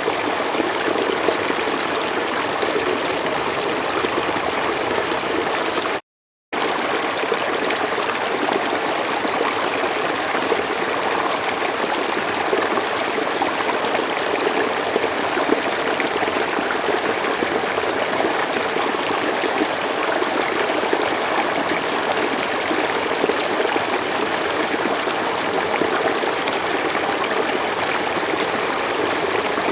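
River water flowing in a steady, even rush. The sound cuts out completely for about half a second around six seconds in, then resumes unchanged.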